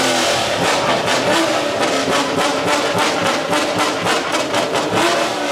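Car engine held at high revs, steady in pitch, with rapid pulsing through the noise.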